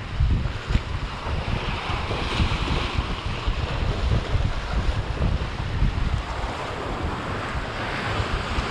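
Wind buffeting the microphone over the wash of surf on the shore; the wash swells about two seconds in and again near the end.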